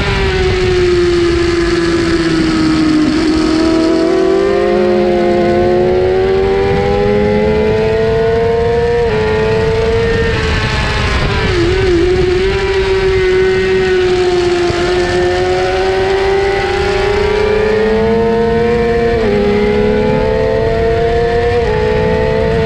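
Suzuki GSX-R600 inline-four racing engine at high revs, heard from on the bike with wind rush. The pitch sags and climbs as the rider lifts and gets back on the throttle, with quick upshifts dropping the pitch a few times, the last two close together near the end.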